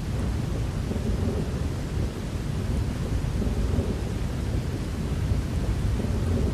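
Thunderstorm: steady rain with a continuous low rolling rumble of thunder.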